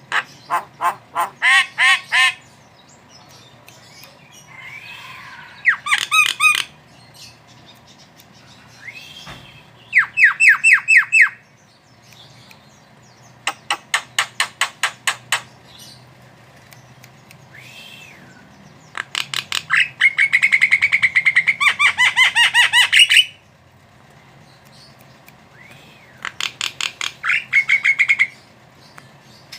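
Javan myna calling in repeated bouts of rapid, harsh chattering notes, about six bouts a few seconds apart, the longest near the middle. Soft rising-and-falling whistles come between some of the bouts.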